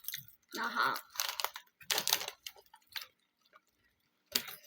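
Hot Cheetos being chewed with the mouth close to the microphone: a run of short, sharp crunches over about two and a half seconds, then a pause, then one more crunch near the end.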